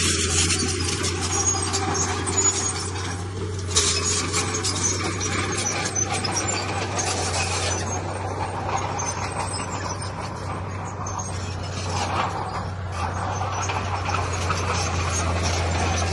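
Heavy earthmoving machinery at work: a diesel engine running steadily under a continuous clatter and scraping.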